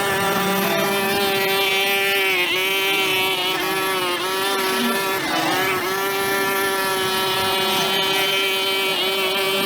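Two-stroke brush cutter running at high speed, its pitch dipping briefly about three times as the engine loads up cutting through grass.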